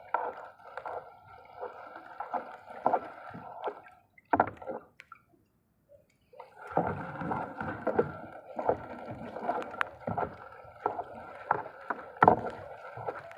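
Water sloshing around a small boat, mixed with irregular knocks and clatter. It drops out about four seconds in for two seconds, then resumes.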